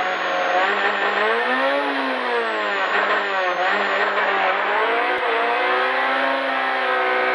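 Rally car's engine held at high revs on the start line, heard from inside the cockpit. The revs swell and fall back a couple of times, then hold steady.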